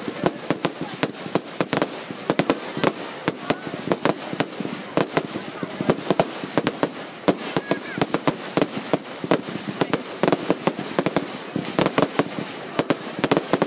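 Fireworks and firecrackers going off in a dense, irregular barrage of sharp bangs and cracks, several a second.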